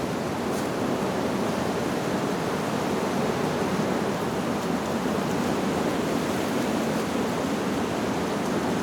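Wind blowing steadily through leaves, an even rushing noise.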